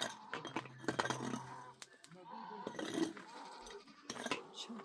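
Livestock bleating at a nomad camp, with faint voices and clinks in the background.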